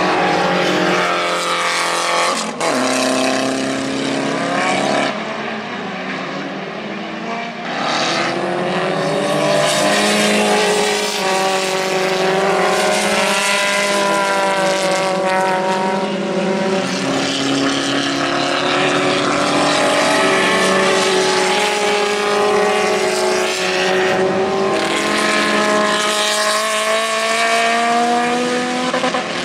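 Ariel Atom race car's engine running hard on a race circuit. Its pitch climbs and then drops at gear changes, with a sharp drop about two and a half seconds in, and it stays loud throughout.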